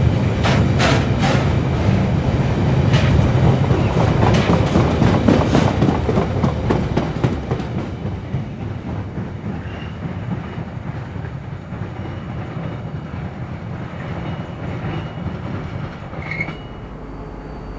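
Rail wagons of a continuous welded rail train rolling past, with a heavy rumble and wheels clicking over the rail joints. The sound fades after about seven seconds as the last wagon clears, leaving a low steady background rumble.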